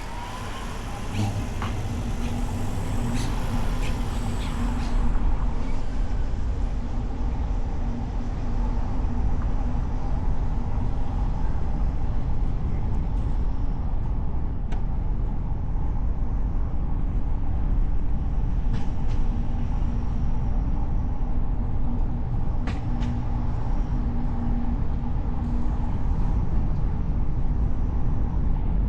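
A car driving in city traffic: steady engine and road rumble, with a hiss in the first few seconds and a few brief clicks later on.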